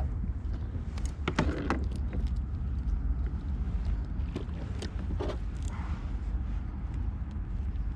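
Wind rumbling on the microphone, with scattered knocks and taps of handling gear on a kayak.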